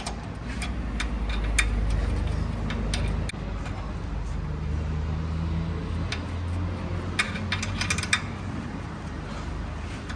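Light clicks and clinks of tools and motorcycle parts being handled during hands-on work, in small clusters, over a steady low rumble.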